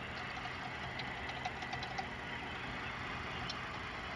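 Steady low hum of the car's surroundings, with a few faint light clicks between one and two seconds in.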